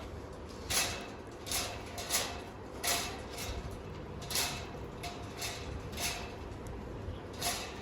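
Pet parakeet making about nine short, scratchy sounds at uneven intervals.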